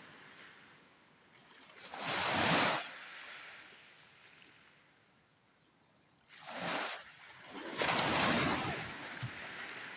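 Sea waves breaking and washing up a beach: three swells of surf, about two seconds in, around six and a half seconds and around eight seconds, with a quieter hiss of water between them.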